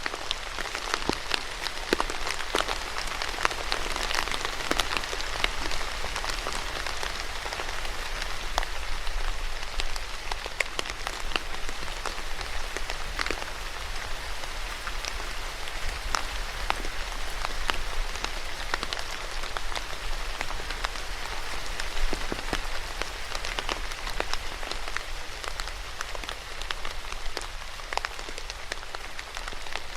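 Steady rain falling, with many individual drops striking close by as sharp little taps over an even hiss.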